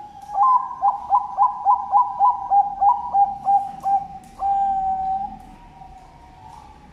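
Zebra dove (perkutut, Bangkok strain) cooing. It gives a fast run of about fourteen short clipped notes, roughly four a second, then ends on one longer drawn-out note about four and a half seconds in.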